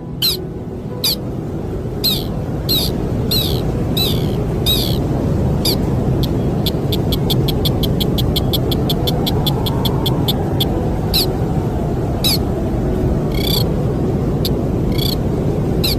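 A sintar bird calling in short, sharp high notes, repeated about every half second to a second. Near the middle comes a quick run of rapid ticking notes, about eight a second. Under it all runs a steady low rumble of wind.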